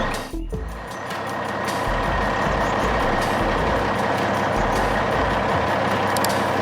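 Heavy truck engine running steadily, an animation sound effect rather than a field recording. The sound drops out briefly just after the start and swells back over the next second or so.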